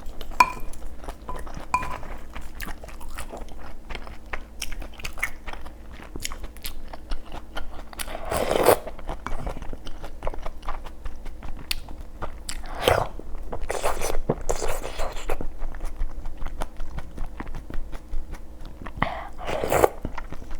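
Close-miked chewing with many crisp, crunchy bites, and a few louder mouth sounds about eight, thirteen and twenty seconds in.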